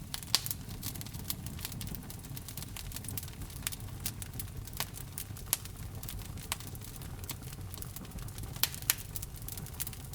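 Wood fire crackling in a fireplace: a steady low rumble of burning with frequent sharp, irregular pops, a few louder snaps standing out.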